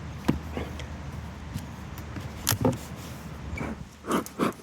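Wooden beehive boxes knocking and scraping as they are worked apart after the bees have sealed them tight, with a few sharp knocks over a low steady hum of honey bees.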